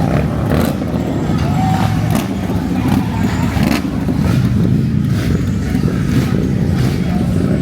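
Car engine running with a steady low rumble, among other vehicles at a street car meet.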